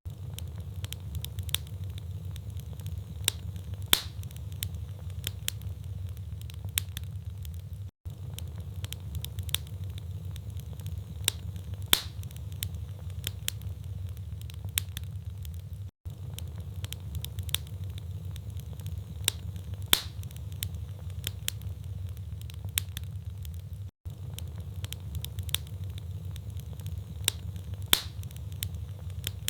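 Wood logs burning in a fireplace, crackling with frequent sharp pops over a steady low rumble. The same stretch of crackling repeats every eight seconds, with a louder pop midway through each pass and a momentary dropout where it loops.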